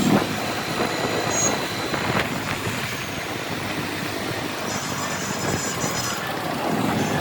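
Motorcycle riding through city traffic: steady engine and road noise, with a brief high-pitched sound about five seconds in.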